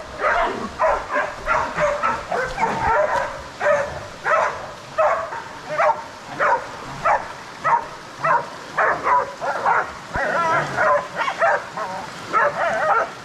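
Hunting dogs barking over and over, two or three barks a second without a break: the baying of bailing dogs holding a pig at bay.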